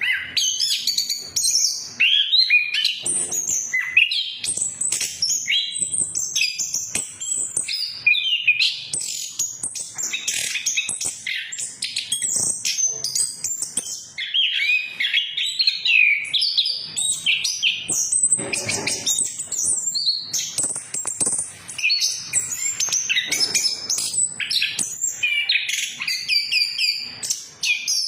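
Chestnut-capped thrush (anis kembang) in full song: a fast, unbroken run of varied high whistles, trills and chirps. This is the kind of song recording used as a lure to get a silent male to start singing.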